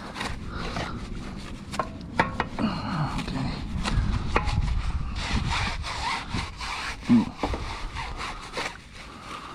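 Wet bristle brush scrubbing a car wheel in repeated back-and-forth strokes, a scratchy rubbing agitating the grime on the wheel.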